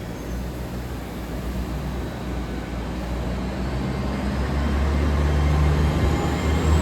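Class 802 bi-mode train running on its underfloor diesel engines: a steady low hum that grows steadily louder, with a faint high whine rising in pitch near the end.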